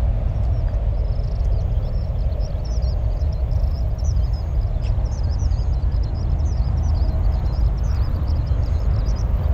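Small birds chirping and twittering busily over a steady low rumble.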